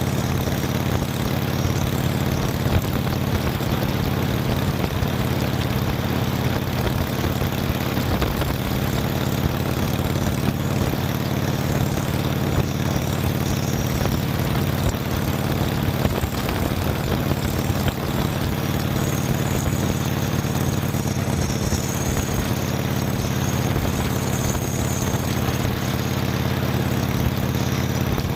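Motorcycle engine running at a steady cruise, with even wind and road noise over it.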